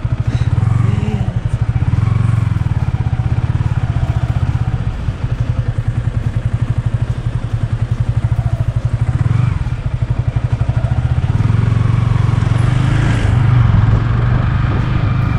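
Yamaha R15 V3's single-cylinder engine running steadily while cruising, a fast low pulsing that eases slightly twice.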